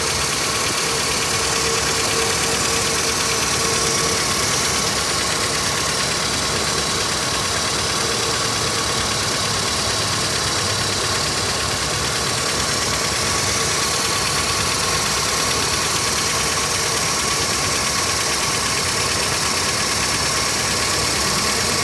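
1994 Toyota pickup's 2.4-litre four-cylinder engine idling steadily, heard close to the exhaust manifold-to-pipe joint where an exhaust leak was patched with high-temperature epoxy.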